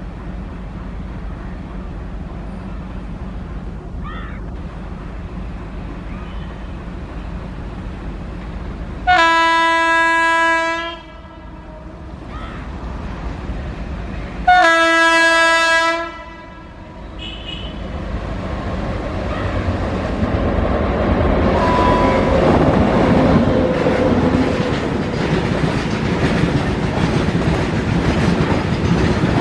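WAG9 electric locomotive hauling a rake of BCN covered goods wagons: a low rumble as it approaches, then two long blasts on its horn, the first about nine seconds in and the second a few seconds later. After the horn the wheel and wagon noise grows louder as the train passes.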